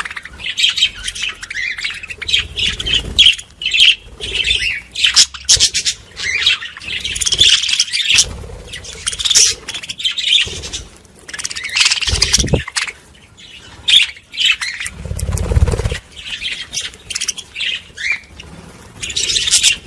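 Small birds chirping and twittering busily, many short calls overlapping. Two brief low rumbles come through, one a little past the middle and one later.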